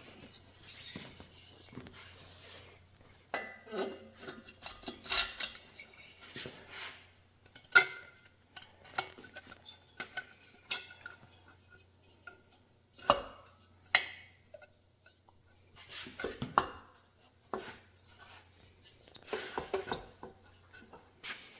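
Metal engine parts clinking and knocking against each other as they are picked up and fitted, in irregular handling sounds with a few sharper strikes.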